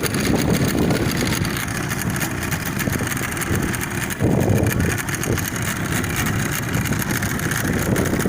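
Motorboat engine idling steadily, the tow boat for the banana boat waiting while riders get on.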